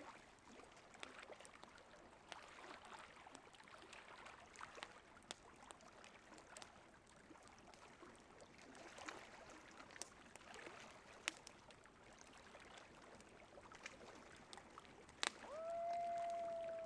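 Campfire crackling faintly with scattered sharp pops over a low steady rush of river water. Near the end, just after a loud pop, a coyote's long steady howl starts and drifts slowly down in pitch.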